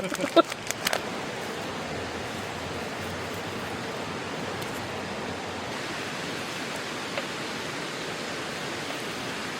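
A brief bit of voices in the first second, then a steady, even rushing background noise that holds unchanged, with no crackles or knocks.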